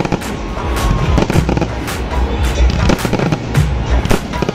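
Aerial fireworks bursting overhead in a rapid, irregular string of bangs, about three a second, with crackling in between.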